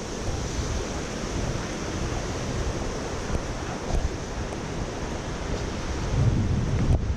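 Rushing water of the Dan Stream, a steady wash of noise, with wind buffeting the microphone and a low rumble swelling near the end.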